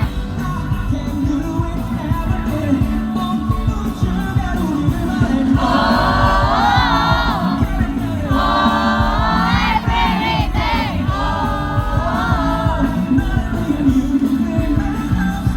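Live K-pop concert: an amplified song with a heavy bass line plays loudly, and the crowd's voices swell over it twice, from about six seconds and again from about eight to eleven seconds.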